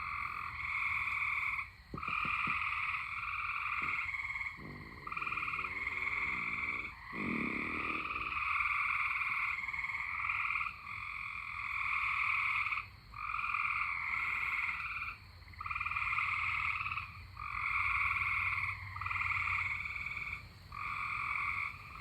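Frogs calling in chorus: trills about a second long, one after another with short gaps.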